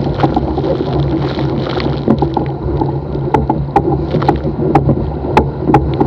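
Small sailboat hull driving fast through choppy water: a steady rush and low rumble of water and wind, broken by many sharp irregular ticks and slaps of splash and spray.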